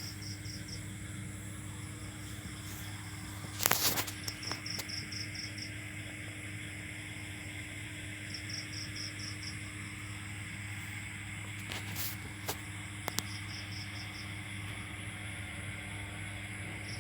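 Insect chirping: short pulsed trills, one about every four seconds, over a steady low hum. A few sharp knocks break in, the loudest about four seconds in.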